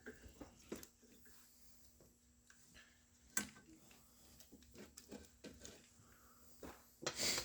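Quiet handling sounds from a car dash wiring harness being worked on: scattered light clicks and knocks, a sharper knock about three seconds in, and a louder clatter near the end.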